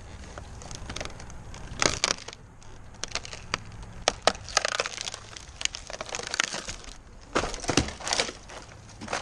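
Dry twigs and leafy brush crackling and snapping in irregular clusters, with the loudest snaps about two seconds in, around four seconds in and near the end, over a faint low steady hum.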